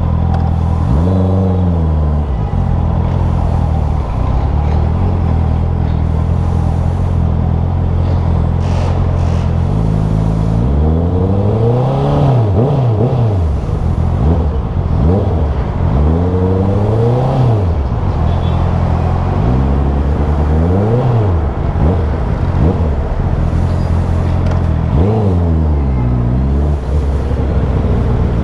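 Vehicle engine running while driving, its pitch rising and falling again several times as the throttle is opened and eased off, over steady road noise.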